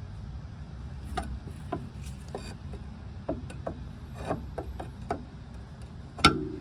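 Mercedes-Benz W126 front suspension creaking and squeaking in a string of short, irregular creaks, with one louder knock near the end; the noise is put down to the upper control arm.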